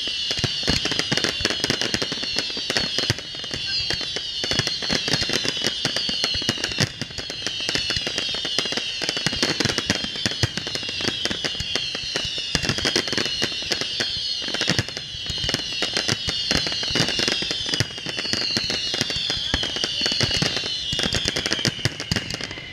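A fireworks finale barrage: a dense, continuous run of bangs and crackles from many shells bursting at once. Over it, high whistling tones fall in pitch again and again.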